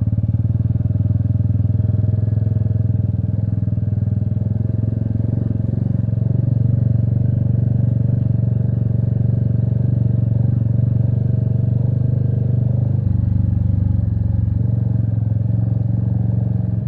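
Royal Enfield Meteor 350's single-cylinder engine running steadily at low road speed, its note changing about thirteen seconds in and again a second and a half later.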